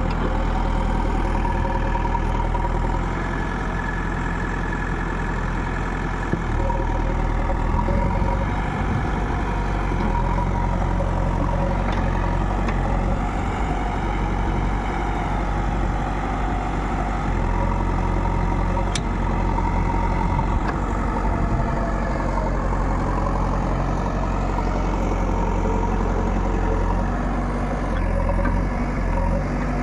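Diesel engine of heavy machinery running steadily, its pitch shifting slightly now and then.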